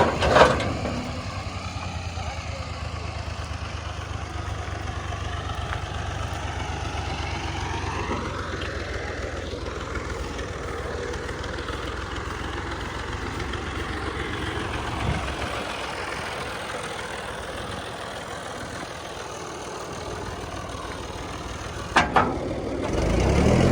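Farm machinery diesel engine running steadily with a low rumble. A tone rises and falls briefly around the middle, and sharp knocks sound right at the start and near the end.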